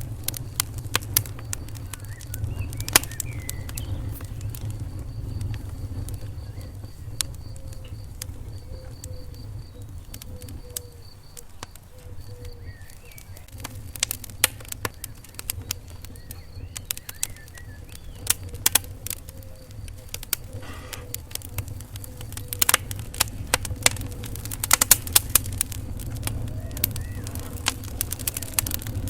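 Wood fire burning in a fireplace: irregular sharp crackles and pops over a steady low rumble, with a dense cluster of pops near the end.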